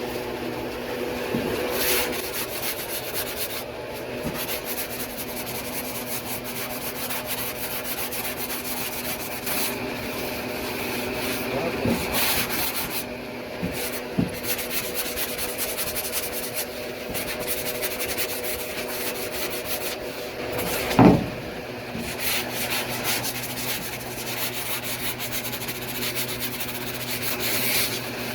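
Power sander running and rubbing across the truck's bed side panel during rust repair, a steady motor hum under the sanding hiss. A brief, louder bump comes about three-quarters of the way through.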